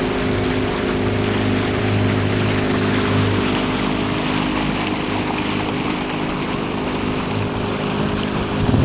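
Motorboat engine running steadily under way, its hum mixed with a constant rush of wind and water, with a short louder surge near the end.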